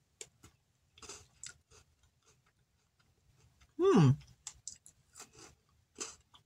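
Crunching and chewing of a crisp Pocky biscuit stick as it is bitten and eaten, in scattered short crunches. About four seconds in there is a short closed-mouth hum that falls in pitch.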